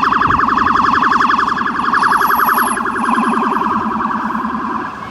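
Fire truck's electronic siren sounding a fast warble, its pitch wobbling up and down many times a second, loud and close. It drops back in level a little before the end.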